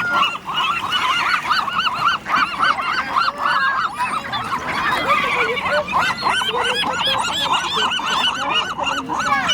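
A large flock of water birds calling all together: many short, arching calls overlapping in a continuous clamour, the racket of birds crowding in for thrown food.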